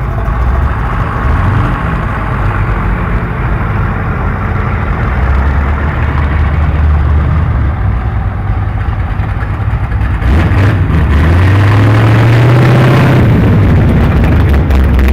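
Car engines running as cars drive out. About ten seconds in a louder engine comes close and its pitch rises as it accelerates, then holds steady.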